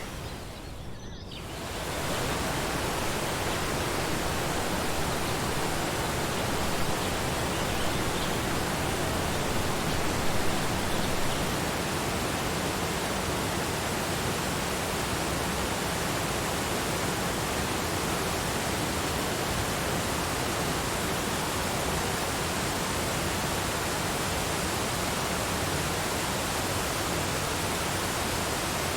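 Waterfall: a steady rush of falling water, dipping briefly in the first two seconds before returning to full level.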